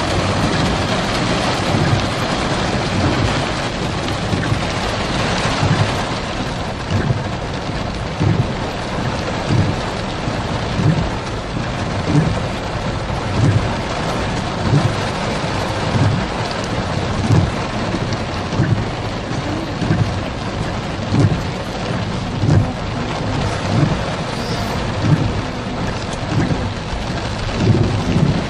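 Heavy rain falling as a steady hiss. From about a third of the way in, low thumps repeat roughly every second and a bit.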